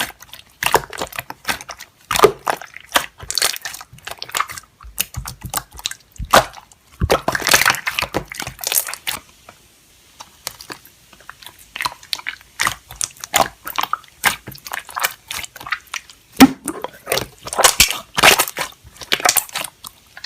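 Slime being squeezed and pressed by hand: a dense run of wet clicks, crackles and pops, with a short lull about halfway through.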